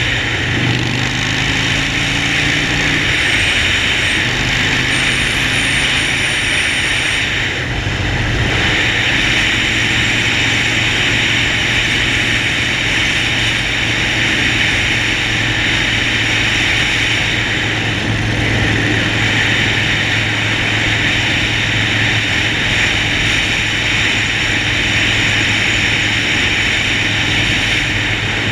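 Harley-Davidson Sportster Forty-Eight's air-cooled V-twin running at a steady cruise under a loud, even rush of wind noise. The engine note shifts briefly near the start, then holds steady.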